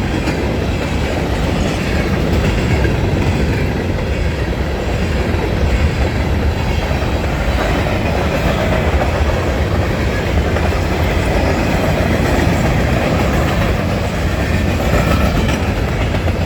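Freight train of grain cars rolling steadily past at close range: a loud, even noise of steel wheels on the rails, deepest at the low end, with no breaks.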